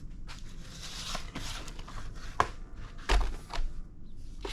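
Craft supplies being handled and set down on a tabletop: scattered clicks and knocks with some rustling, a sharp click past two seconds in and a heavier thump about three seconds in.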